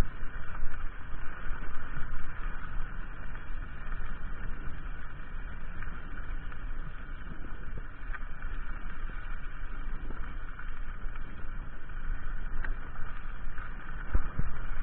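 Mountain bike being ridden along a path: a steady wash of wind rumble on the microphone mixed with tyre and bike noise, rising and falling in gusts throughout, with a few harder knocks near the end.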